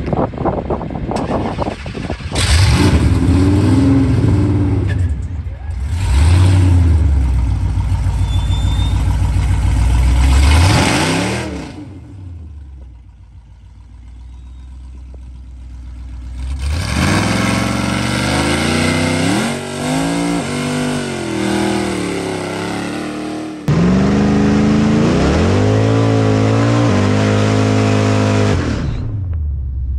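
Dodge Challenger SRT Demon's supercharged Hemi V8 revving hard in several edited stretches, its pitch rising and falling, with a much quieter stretch in the middle. It changes abruptly a few seconds from the end to a steady high-revving run during a burnout, the rear tyres smoking.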